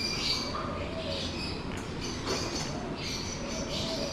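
Many caged birds chirping and calling at once, short high calls overlapping throughout, over a steady low background hum.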